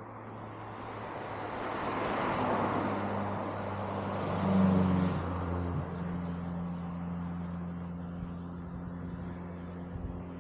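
A motor vehicle passing on the road: a rush of tyre and engine noise that swells over about two seconds, peaks, and fades, over a steady low engine hum.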